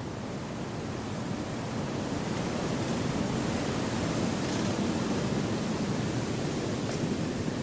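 Wind blowing through forest trees: a steady, soft rushing that swells slightly over the first few seconds, then holds.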